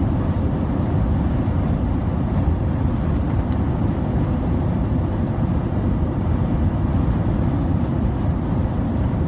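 Steady road noise of a car driving on a highway, heard from inside the cabin: an even low rumble of tyres and engine.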